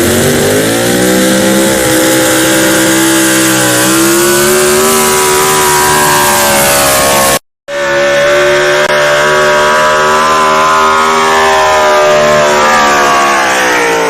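Super Stock 4x4 pulling truck's engine running hard at high rpm during a pull. The pitch climbs in the first second, holds with slow drifts, then eases down near the end. The sound cuts out for a split second about halfway through.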